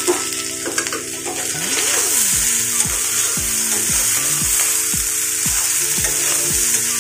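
Green beans and potato slices sizzling as they fry in oil in a kadai, stirred and turned with a spatula. Background music with a falling thump about twice a second comes in about two and a half seconds in.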